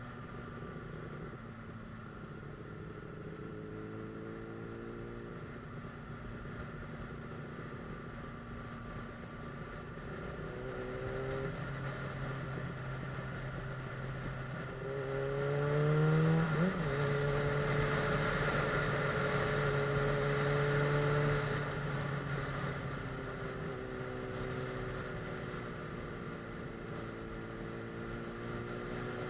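Suzuki GSF 600 Bandit S's inline-four engine under way, revs climbing through the gears with a quick blip just past halfway, running loudest and steady for a few seconds, then easing off, over a steady hiss.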